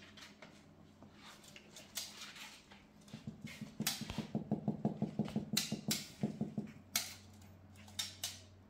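A pet's loud rapid rhythmic rumble, the 'loud mini engine' of the title, typical of a cat purring, rising about three seconds in and fading out after about three seconds, over a steady low hum.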